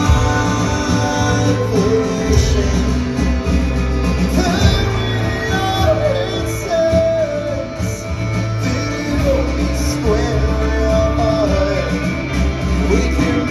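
Live rock band playing loudly in a concert hall, with guitars and drums and wordless singing over them.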